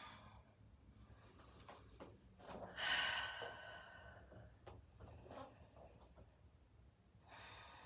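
A person breathing audibly while moving through a vinyasa flow: one strong exhale about three seconds in and another breath near the end, with a few faint soft knocks of movement between.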